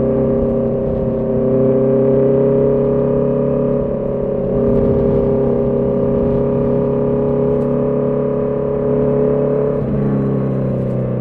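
Honda CB650R's inline-four engine and exhaust under way at a steady throttle, its pitch drifting slightly higher, then shifting about ten seconds in.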